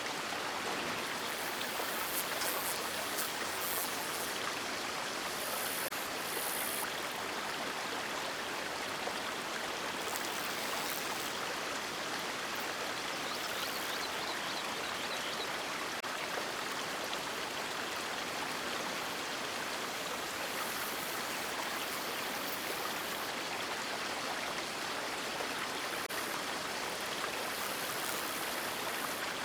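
River water rushing and splashing over rocks, a steady, even rush of flowing water.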